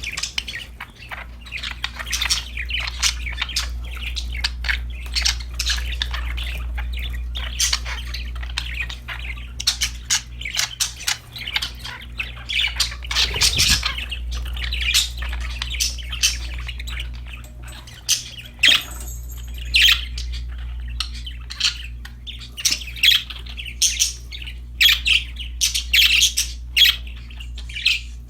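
Budgerigars chirping and chattering in a busy, irregular stream of short, high chirps and squawks, over a steady low hum.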